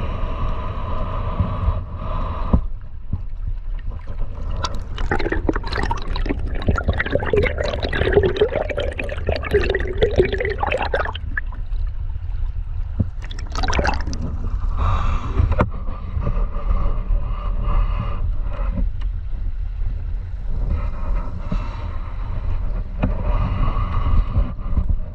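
Flowing river water gurgling and trickling over a steady low rumble, with a louder stretch of gurgling from about five to eleven seconds in.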